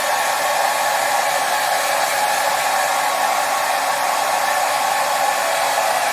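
Hair dryer running steadily, an even unbroken blowing noise with a faint steady whine, played as a soothing sound for calming a baby to sleep.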